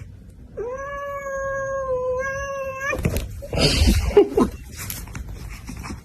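A cat's long, drawn-out yowl, held on one pitch for about two seconds with a brief break and a slight rise at the end. About three seconds in it gives way to a loud noisy flurry with short cries, the loudest part.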